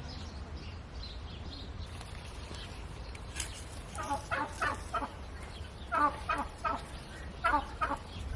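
Poultry calling: three short bursts of rapid, pulsed calls, about four, six and seven and a half seconds in, over a steady low background rumble.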